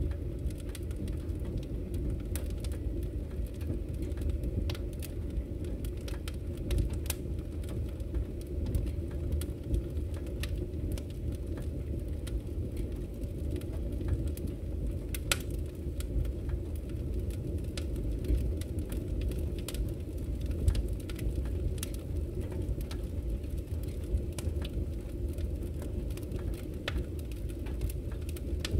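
Wood fire burning in a fireplace: a steady low rumble of the flames with irregular crackles and pops, a few sharper than the rest.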